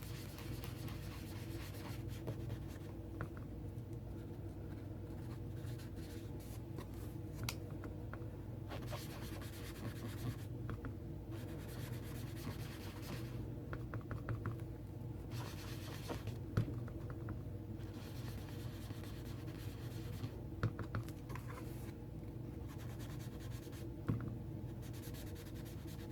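An ink sponge scratching and rubbing across cardstock in intermittent passes, with a few light taps, over a steady low hum.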